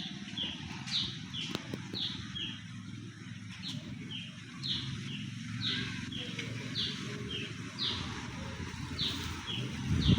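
Bird chirping: short, falling chirps repeated about twice a second, alternating between a higher and a lower pitch, over a low rumbling background.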